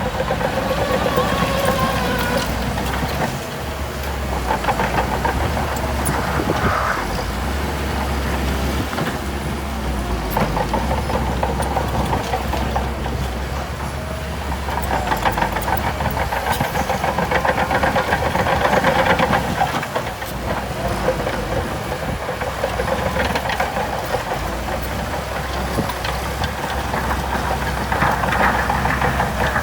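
Heavy earthmoving machine's diesel engine running continuously, its note swelling and easing several times as it takes load and lets off.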